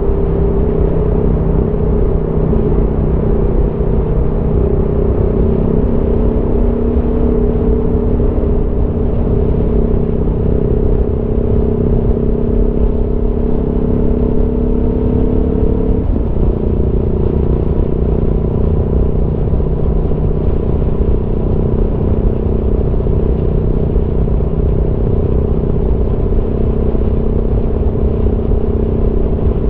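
Aprilia Tuono V4 motorcycle's V4 engine running under way. Its note climbs slowly, drops abruptly about halfway through as at a gear change, then holds steady, over a low rush of wind.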